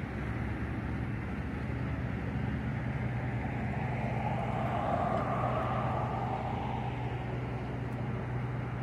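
A steady engine hum with road-like rushing noise. A rush swells and fades in the middle, like a vehicle going past.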